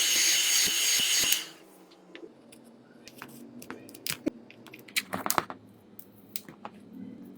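A small power tool or hot-air blower runs with a loud hiss and a steady high whine, then cuts off about one and a half seconds in. Scattered light clicks and taps follow.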